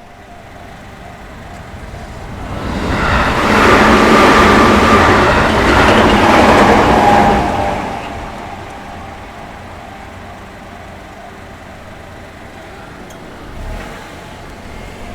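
An electric train passing over a level crossing: its running and wheel noise swells over about two seconds, stays loud for about four, then fades, while the crossing bell keeps ringing underneath.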